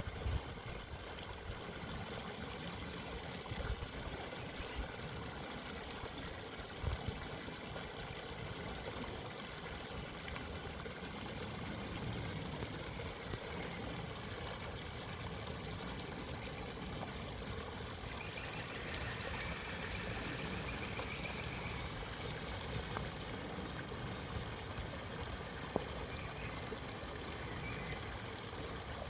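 Stream water running steadily, a continuous babbling and trickling, with a faint bird twittering for a few seconds about two-thirds of the way through.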